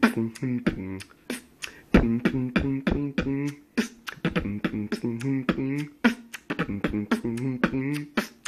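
Human beatboxing: sharp mouth-made drum hits in a steady beat, with hummed pitched bass notes and a warbling vocal line between them.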